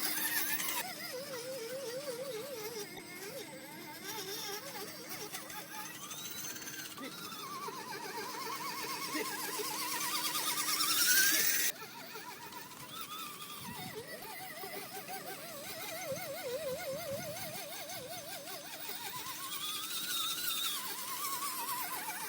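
Electric motor of an RC scale crawler truck whining, its pitch wavering and rising and falling with the throttle. It climbs highest about halfway through and then cuts off abruptly.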